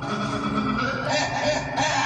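A dubbed dinosaur roar sound effect: a held pitched tone gives way, about a second in, to a run of harsh honking cries, about three a second.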